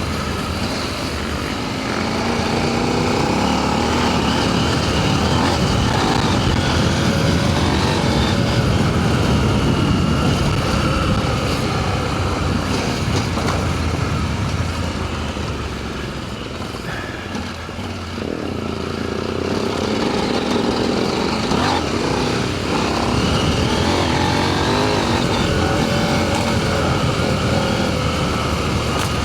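Adventure motorcycle engine running under load on a dirt trail, its revs rising and falling, with wind and riding noise. The engine eases off for a couple of seconds past the middle, then picks up again.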